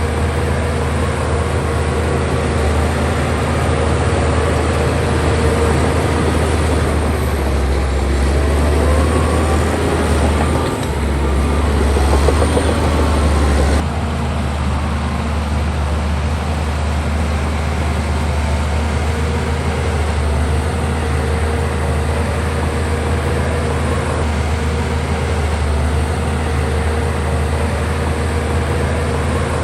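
Heavy diesel engine of earthmoving machinery running steadily. It grows louder under load for several seconds in the middle, then drops off suddenly.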